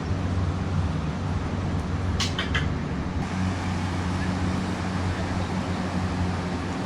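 An engine running steadily with a low hum, under a wash of outdoor noise. Three short, high chirps or squeaks come in quick succession a little over two seconds in.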